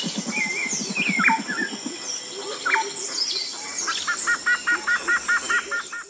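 Outdoor ambience of several birds chirping and calling over a steady high insect-like hiss. A low, rapid rattle runs through the first two seconds, and near the end a short call repeats about five times a second.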